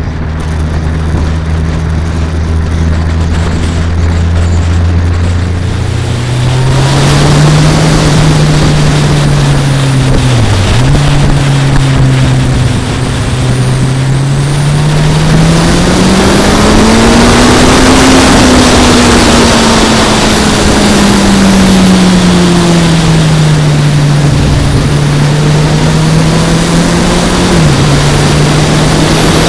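Kawasaki ZZR1400 inline-four engine heard from a bike-mounted camera: a steady low note at first, then about six seconds in wind rush on the microphone swells as the engine pitch climbs, dips briefly around ten seconds in, rises to a peak past the middle and eases off, with another quick dip near the end.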